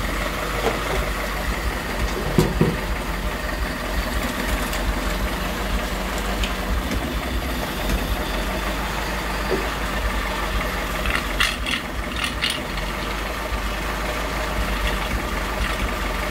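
Toyota 4K four-cylinder petrol engine idling, running a little unevenly, which the owner puts down to the engine still being cold. A few short clicks and knocks come about two and a half seconds in and again around twelve seconds.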